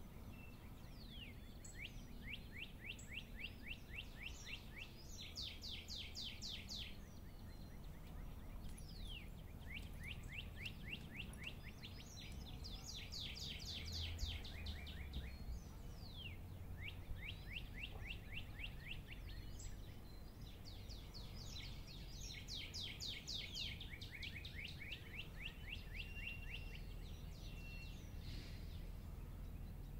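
Songbirds singing at dawn: repeated trilled phrases of quick, downward-sweeping notes, each phrase two to three seconds long, with a few single slurred notes between, over a faint, steady low background rumble.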